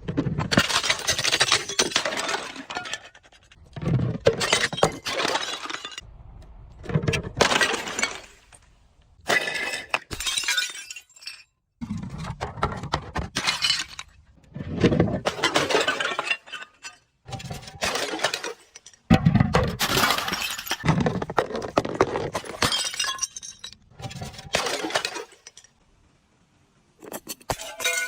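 Glass bottles being crushed and breaking: about a dozen separate bursts of crunching and shattering glass, each lasting a second or two, with short pauses between them.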